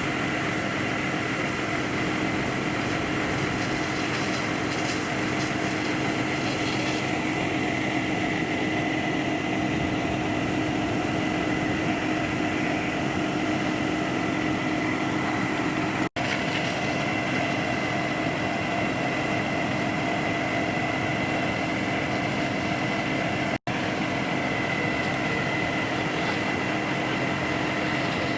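A steady mechanical drone from a running motor, with a constant high whine over it. It cuts out for an instant twice.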